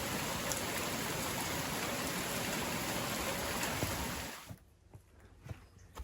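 Heavy, steady rainfall, an even hiss of falling rain that cuts off suddenly about four seconds in, leaving a quiet background with a few faint knocks.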